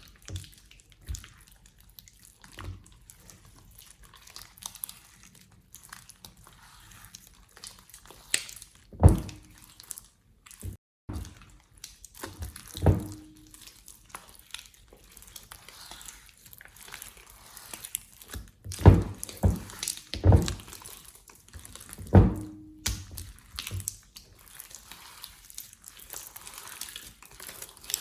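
Slime being made and handled: wet, sticky squishes and drips, with sudden knocks against a container about a dozen times.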